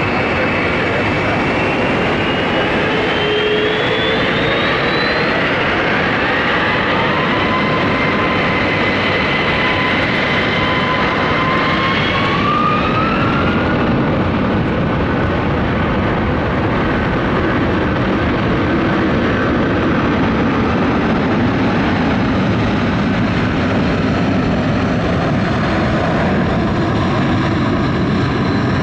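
Boeing 747-400's four Rolls-Royce RB211 turbofans running at takeoff power: a loud, steady jet noise, with whining tones that rise in pitch over the first dozen seconds and then fade into the steady noise.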